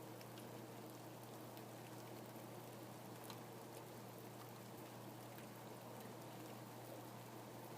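Steady rain, with many small, sharp drop hits scattered over an even hiss. A faint, steady low hum lies underneath.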